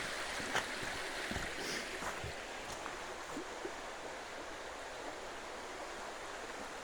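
A small stream, Indian Run, rushing steadily, with a few light clicks in the first few seconds.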